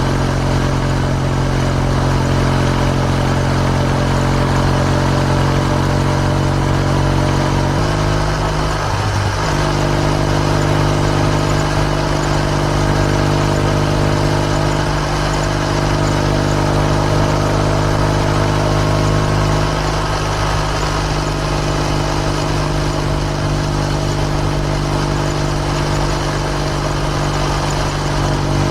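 Kawasaki W650 parallel-twin engine running through an R's Gear Wyvan Classic muffler while riding at a steady cruise. The exhaust note shifts in pitch once about eight seconds in and again around twenty seconds.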